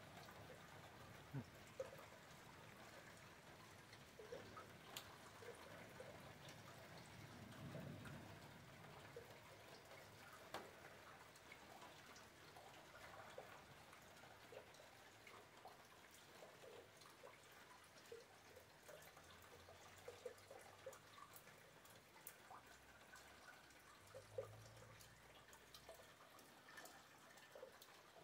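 Near silence with faint rain dripping: scattered small drops ticking over a soft hiss.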